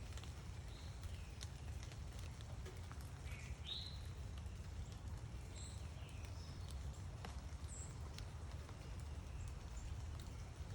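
Scattered short, faint bird chirps, a few calls over the few seconds, with occasional faint clicks over a steady low background rumble.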